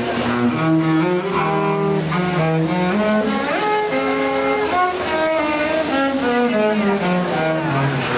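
Music on bowed string instruments: a low, cello-like line under a melody of held notes, some sliding between pitches.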